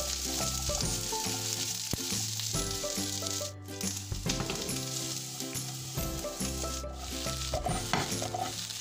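Diced onions and green capsicum sizzling in oil in a pan on high flame, with a spatula stirring them near the start. The sizzle is steady, cutting out briefly twice.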